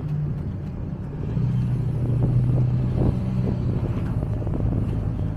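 A vehicle's engine running steadily at idle, a low hum that grows a little louder about a second and a half in.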